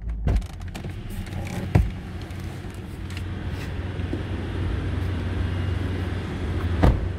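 Hyundai i20 engine settling back from a rev to a steady idle, with a few sharp knocks and clunks, the loudest near the end.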